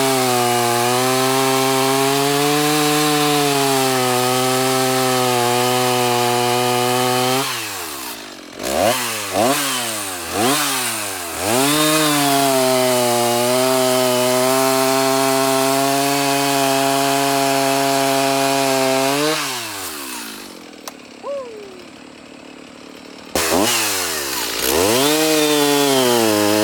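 Two-stroke Stihl chainsaw running at steady high revs, dropping back with a few quick blips of the throttle, then held high again for several seconds before it drops away. After a few quieter seconds a saw comes in suddenly near the end and revs up.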